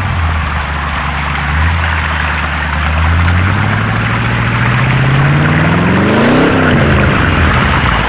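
Radio-controlled 4x4 model car's motor driving through a riverbed: its whine climbs steadily in pitch for a few seconds, then drops away about six and a half seconds in, over a steady rushing noise.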